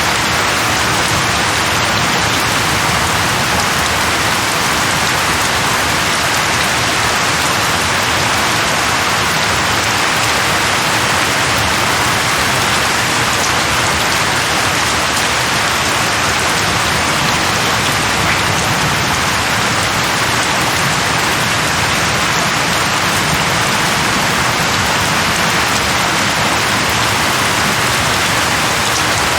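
Steady rain falling on leaves, an even hiss with no let-up.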